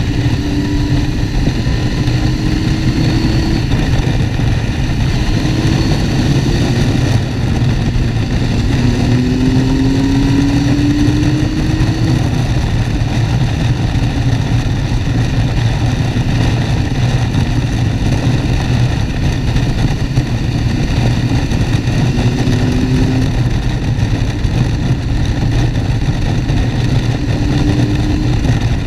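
Motorcycle riding at speed: steady engine running under heavy wind rush, with the engine's pitch rising briefly several times as it picks up revs.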